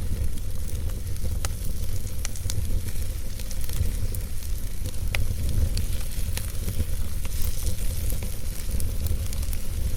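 Wood fire burning in a fireplace: a steady low rumble and hiss with scattered sharp crackles and pops, roughly one every second.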